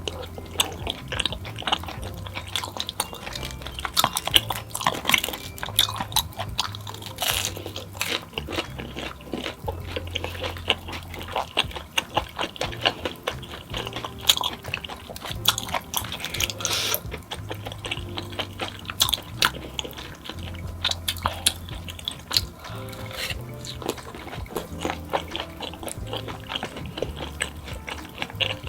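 Close-miked eating sounds: wet chewing and slurping of saucy tteokbokki, with many sharp, irregular crunches and clicks. Under it runs background music with a steady bass line.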